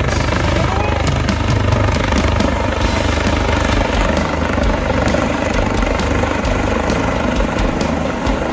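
US Coast Guard H-65 Dolphin helicopter arriving, its rotor and engines making a loud, steady rumble with a rapid, regular beat of blade thumps in the first few seconds.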